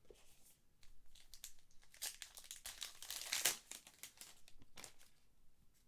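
Plastic packaging crinkling and rustling as trading cards are handled: a string of short crinkles, loudest about three and a half seconds in.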